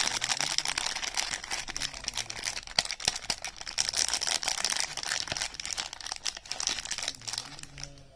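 Soap packaging being handled and unwrapped, crinkling and crackling continuously with many small sharp clicks, tapering off near the end.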